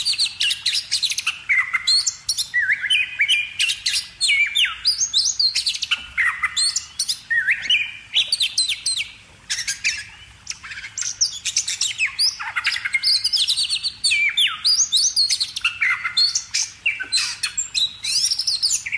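Birds chirping and calling almost without pause, in many quick high notes that slide down in pitch, with a short lull about ten seconds in.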